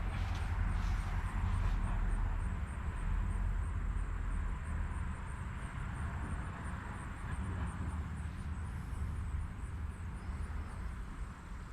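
Outdoor ambience: a steady low rumble with a broad hiss over it, and a faint high-pitched ticking about three or four times a second.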